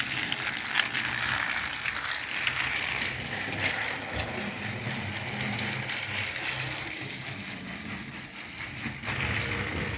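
Battery-powered Tomy toy train engines running along plastic track: a steady whir of small motors and gears, with scattered light clicks.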